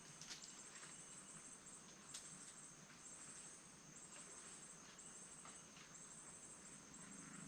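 Faint night insects trilling, very high-pitched, in short bursts about once a second, with a few faint clicks.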